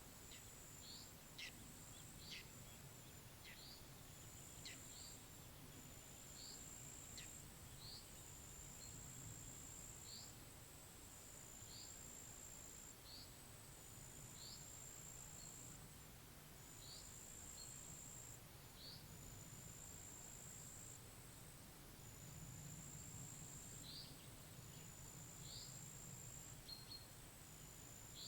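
Faint pond ambience: an insect trilling high and steady in repeated stretches, a bird giving short high chirps about once a second, and a faint low rumble of wind.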